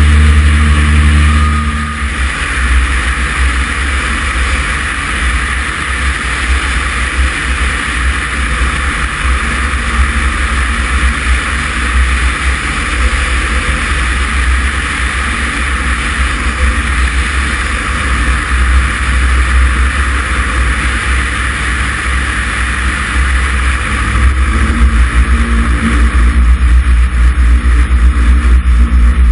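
Cessna 140's flat-four piston engine and propeller running: power comes back about two seconds in and holds steady, then is brought up again near the end, the engine beat growing louder and heavier.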